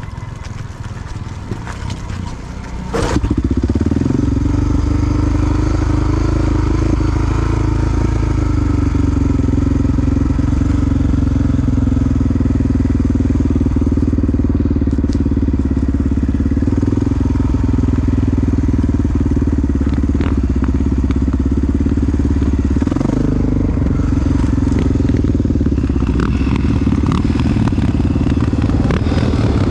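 Big single-cylinder four-stroke dirt-bike engine comes in sharply about three seconds in, then runs steadily at an even pitch.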